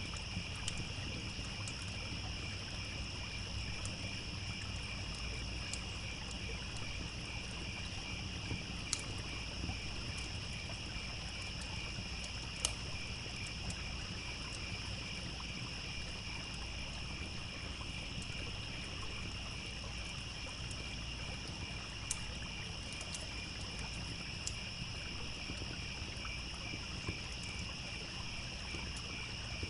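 Crickets chirping in a continuous pulsing chorus over the low rush of a stream, with a few sharp, scattered pops from a crackling wood campfire.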